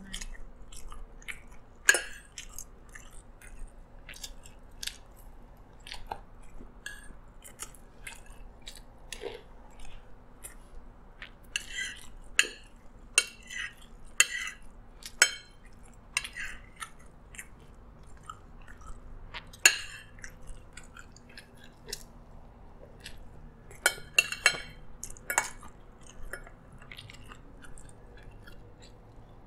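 Close-miked chewing of mouthfuls of nasi lemak rice, with short, sharp clicks of a spoon and fork against the plate now and then.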